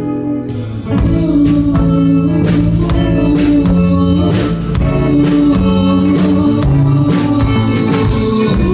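Live band music: an instrumental break in a slow song, with guitar and a steady drum beat.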